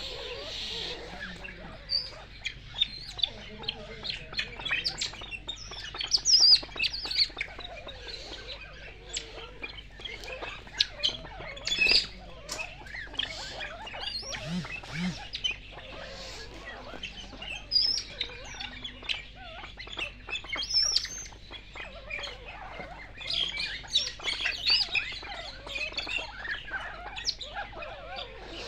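Birds chirping with many short, high calls that overlap throughout, a few of them louder, about 6 and 12 seconds in.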